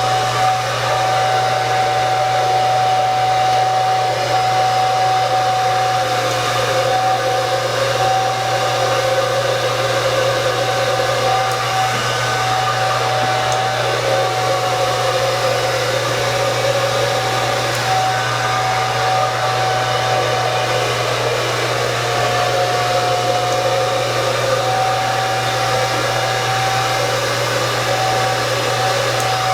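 Handheld hair dryer blowing steadily while drying hair, a continuous rush of air with a steady high whine that wavers slightly as the dryer is moved.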